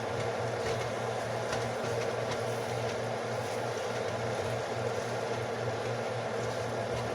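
A steady mechanical hum with a few faint crackles from vegetables and beans cooking in a pan on the stove.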